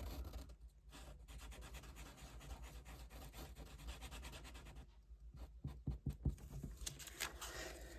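Faint scratching and rubbing of a tool drawing on paper, with a few light taps about six seconds in.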